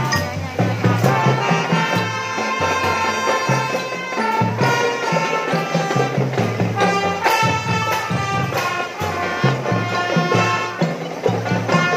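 Marching drum band playing: a pitched melody line over a steady beat of bass drums, with sharp snare and cymbal hits.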